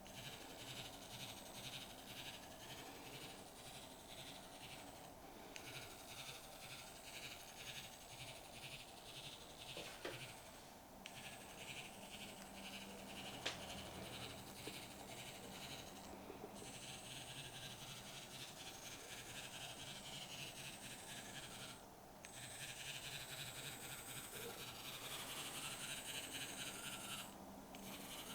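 Faint nature-sounds ambience: a dense chorus of animals chirping, briefly dropping out about every five to six seconds.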